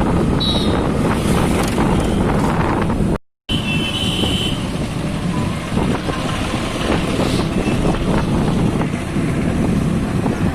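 Motorcycle riding, its engine and road noise heavily mixed with wind buffeting the microphone. Short high tones sound briefly near the start and again at about 4 s. The sound cuts out completely for a moment after about three seconds, then resumes.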